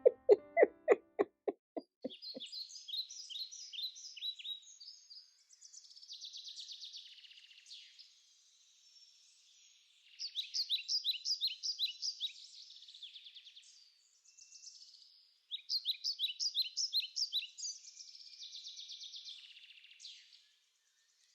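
Birdsong: bursts of rapid, high chirping trills separated by short pauses, after a quick run of pitched notes that fades out in the first two seconds.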